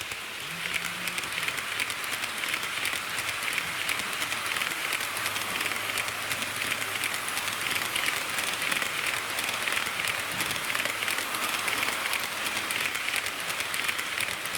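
HO gauge model diesel railcar running on track: steel wheels on the rails making a dense, rapid clatter of fine clicks, louder from about a second in.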